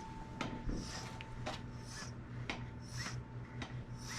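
Truck cooling system held under vacuum, air being drawn in at a leak with a rhythmic rasping, sucking noise about twice a second; the leak noise comes from the top of the system, which the owner suspects is a hole in the radiator. A faint steady whistle runs under it and stops near the end.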